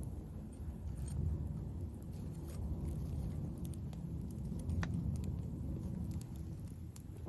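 Wood campfire burning: a steady low rumble with scattered sharp crackles and pops from the burning wood.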